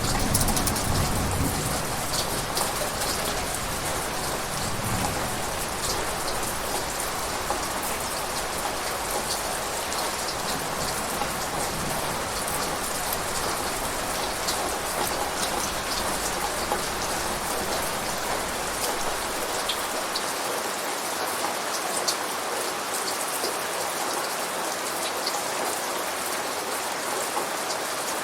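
Steady rain falling on a surface, a continuous hiss scattered with individual drop hits. The tail of a low thunder rumble dies away in the first second or two.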